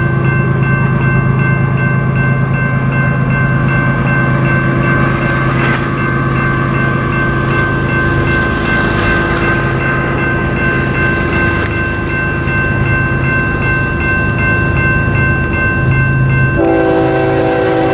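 Diesel freight train running past: a steady low rumble under several steady whining tones from the locomotives. Near the end the locomotive horn starts sounding a held chord.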